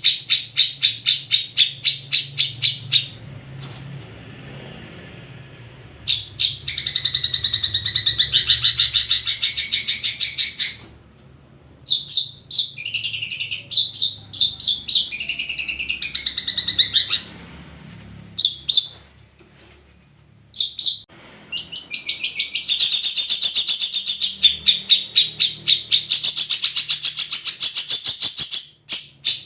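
Long-tailed shrikes (cendet) singing: loud, fast strings of sharp repeated notes, about seven a second, in phrases broken by short pauses.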